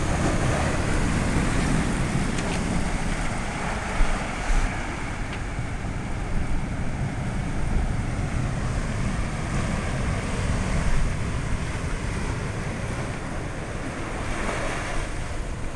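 Heavy hurricane surf, large waves crashing in with a deep, continuous rumble, with wind buffeting the microphone and a few brief louder surges.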